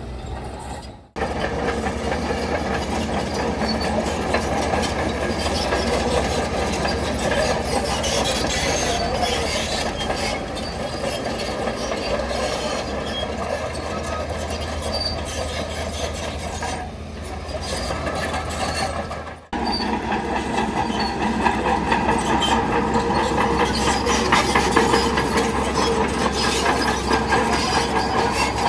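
Shantui crawler bulldozer working: diesel engine running steadily with the steel tracks clanking and squealing. The sound cuts off abruptly twice, about a second in and again about two-thirds through, then resumes.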